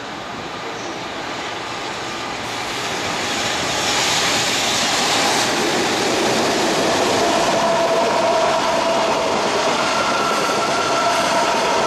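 EF210 electric locomotive hauling a freight train past, the noise growing louder over the first four seconds as it draws near, then the steady running noise of freight wagons' wheels on the rails. A thin ringing tone rides over it in the second half.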